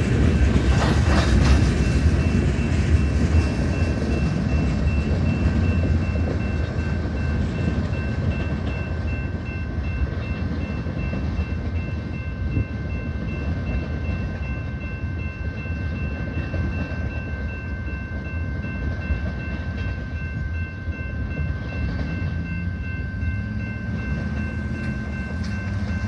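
Freight cars of a manifest train rolling past, a steady low rumble of wheels on rail that slowly eases off, with a thin steady high whine over it.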